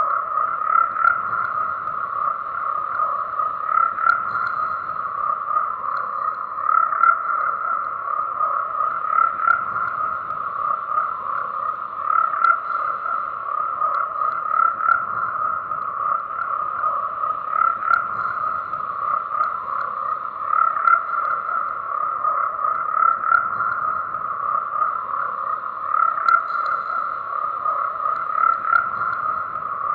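Frogs croaking in a dense, continuous chorus, the calls running together without a break and swelling slightly every second or so.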